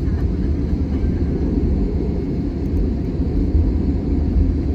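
Steady low rumble of an Airbus A320-200 with its engines running, heard from inside the cabin.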